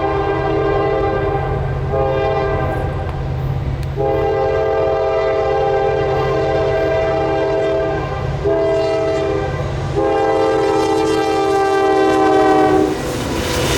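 Diesel freight locomotive's multi-chime air horn sounding for a crossing, long blasts broken by shorter ones, over the low rumble of the engine. Near the end the horn stops and the rush and clatter of the passing train take over.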